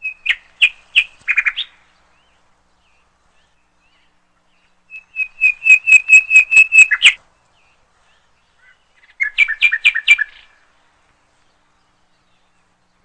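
Small bird chirping: three short bouts of quick, high repeated chirps, each a few seconds apart.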